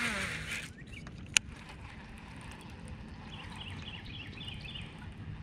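A whirr falling in pitch fades out at the very start, then one sharp click about a second and a half in. From about three seconds on, birds chirp faintly in short repeated calls.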